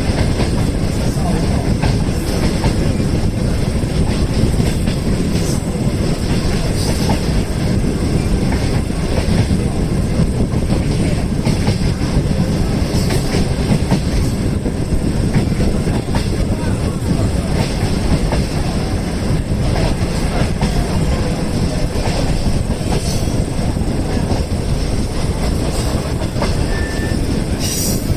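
Steady rumble and clickety-clack of a moving passenger train's wheels on the rails, heard aboard a non-air-conditioned green-skin coach, with irregular clicks from rail joints.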